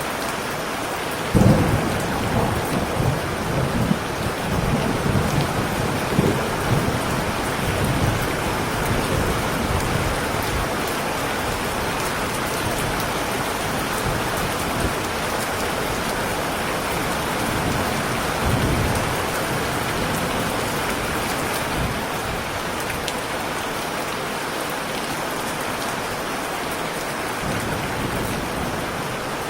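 Heavy rain falling steadily, with a sharp thunderclap about a second and a half in that rolls on as rumbling for several seconds, and a further low rumble of thunder later on.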